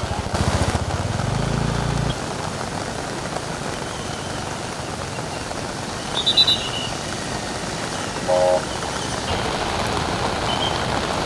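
Steady noise of heavy rain and swollen floodwater rushing, with a low rumble in the first two seconds and a short beep about eight seconds in.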